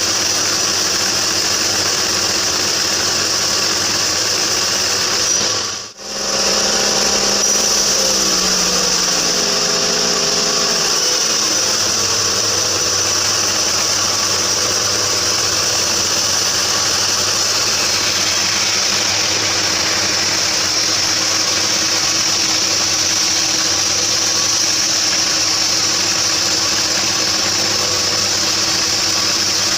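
Homemade bandsaw sawmill running with a steady mechanical drone. It cuts out briefly about six seconds in; when it returns, tones slide downward for a few seconds before it settles back to the steady run.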